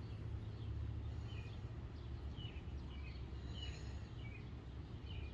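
Faint, short bird chirps, scattered about half a dozen times, over a steady low rumble of background noise.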